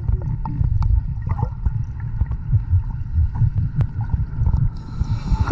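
Muffled, irregular low rumbling of water sloshing and gurgling close to the microphone, with scattered small knocks.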